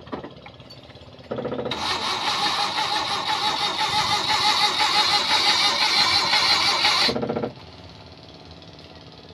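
Starter motor cranking the Suzuki Multicab's F6E three-cylinder engine for about six seconds without it catching, then stopping abruptly: the engine's no-start fault.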